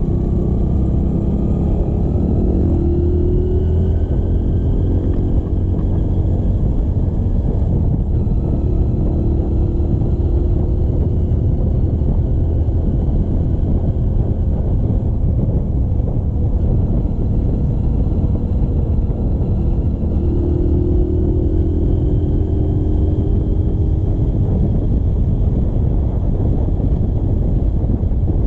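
Motorcycle engine running under way over a heavy, steady low rumble of wind on the microphone. The engine note rises several times as the bike accelerates.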